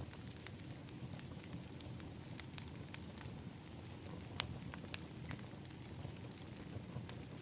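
Fire in a fire pit crackling: irregular sharp pops and snaps over a low steady rumble, with the two loudest pops a little past halfway.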